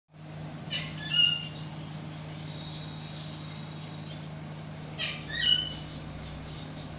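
Bird calls in two short bursts of high chirps, about a second in and again about five seconds in, over a steady low hum.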